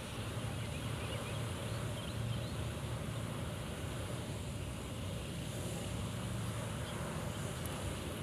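Steady wind buffeting the microphone outdoors, a low, even noise with a faint hiss above it.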